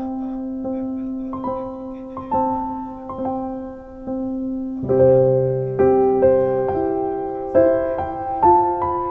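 Background piano music: a slow melody of single struck notes over held chords, growing fuller about halfway through.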